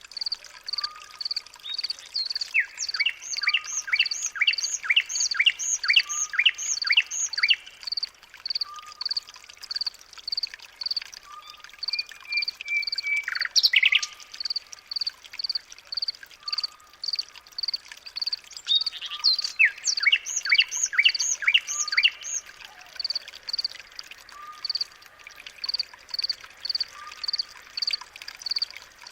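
Nature chorus of birds and chirping animals. A high chirp repeats about twice a second throughout, and a bird sings two runs of rapid repeated notes, one starting about two seconds in and one about nineteen seconds in.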